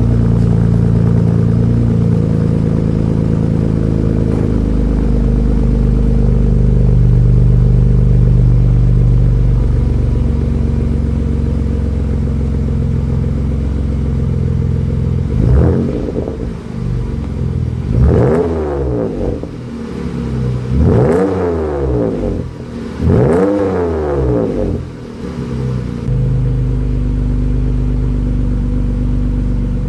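Jeep Grand Cherokee 3.6-litre V6 with a Borla aftermarket exhaust idling steadily, then revved in four quick blips from about halfway through, each rising and falling back, before it settles to idle again.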